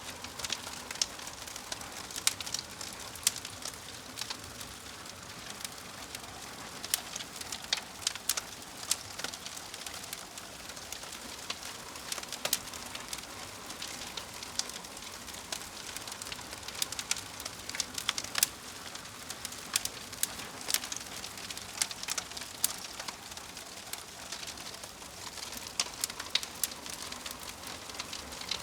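Wood fire burning with a steady soft hiss and frequent sharp, irregular crackles and pops.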